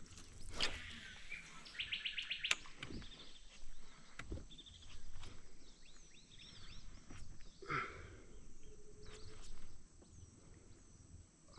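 Birds calling and singing, including a rapid trill about two seconds in and several short whistled glides, with a few scattered sharp clicks.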